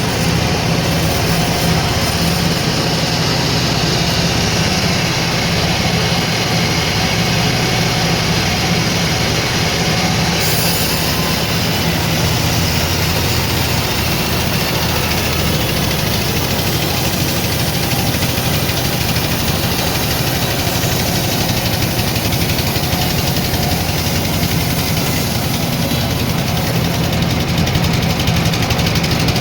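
Sawmill machinery running steadily, a loud, even motor hum with a constant low drone and hiss.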